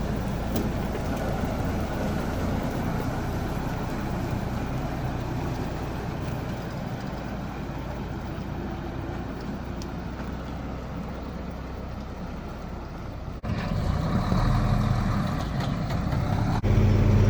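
A truck engine idling steadily with a low hum. It gets abruptly louder twice, about thirteen and sixteen seconds in.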